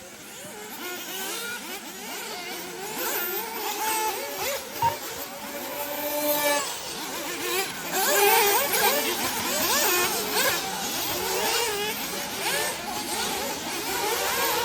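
Several 1/8-scale nitro off-road buggy engines racing together, each revving up and down so that their pitches rise and fall over one another, growing louder over the first several seconds.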